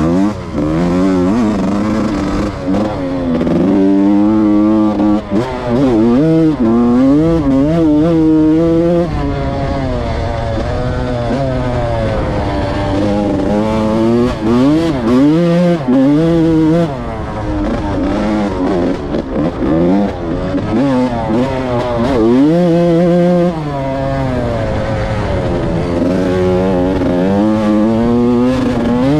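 Yamaha YZ125's single-cylinder two-stroke engine being ridden hard, its revs rising and falling over and over as the throttle is opened and closed and the gears change.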